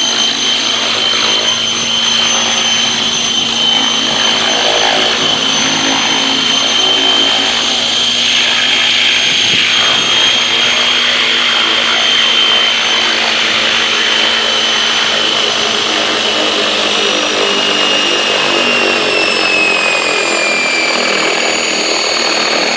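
Remote-control helicopter running close by: a steady high motor and rotor whine, its pitch dropping over the last few seconds as the throttle comes down.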